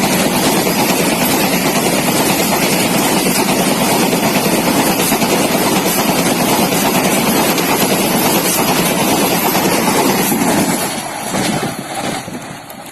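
Vande Bharat Express electric train set passing at speed: a loud, steady rush of wheels on rail and air. It drops away sharply about eleven seconds in as the end of the train goes by.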